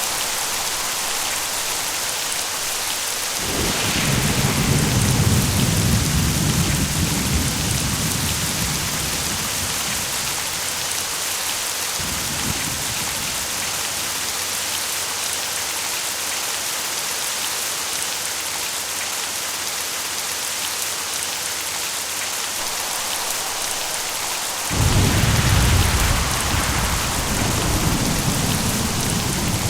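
Steady rain with thunder: a low rumble starts suddenly a few seconds in and fades over several seconds, a short fainter rumble comes near the middle, and a sharper, louder clap near the end rolls on.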